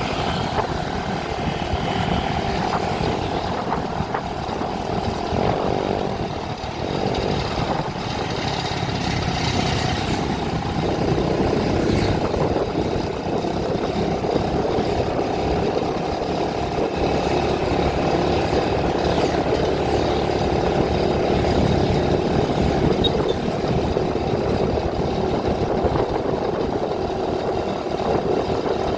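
A vehicle's engine running steadily on the move, with a buzzing hum and road noise throughout.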